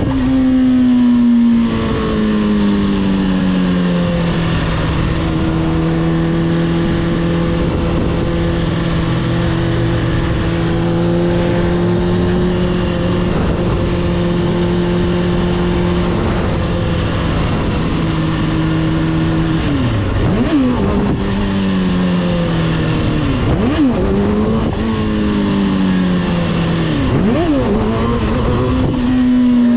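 Motorcycle engine: the revs fall and then hold a steady pitch for about twelve seconds, a few quick throttle blips come around twenty seconds in, and then the revs climb and drop in steps as it pulls through the gears, over a steady rushing noise.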